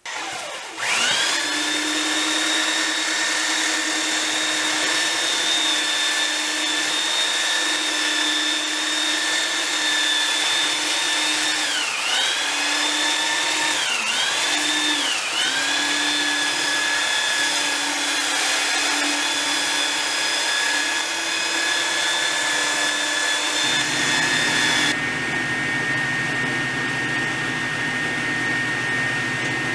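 Electric power tool motor starting up and running steadily with a high whine. Its pitch dips briefly three times around the middle, as the motor is loaded. About 24 seconds in, the sound changes to a different, lower-humming motor tone.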